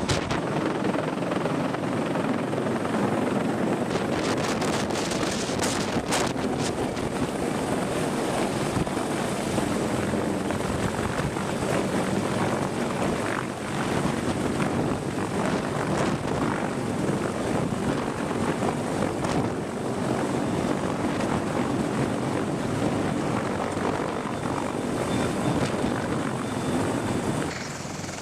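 Helicopter in flight, its rotor and turbine engines running in a steady, loud drone.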